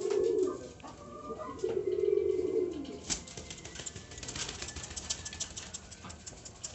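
Domestic pigeons cooing: a short low coo at the start and a longer one about two seconds in, followed by a rapid run of light clicks and scratches.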